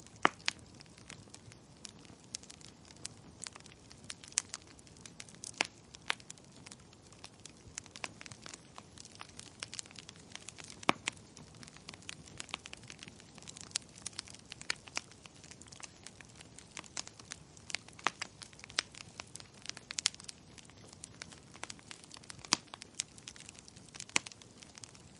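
Wood fire crackling: irregular sharp pops and snaps, several a second with a few louder ones, over a low steady hiss.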